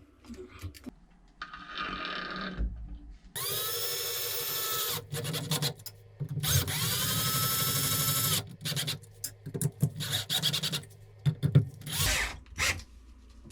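Cordless drill running in two bursts of about two seconds each. Each time its whine rises as the motor spins up and then holds steady. Short clicks and knocks of handling come between the bursts.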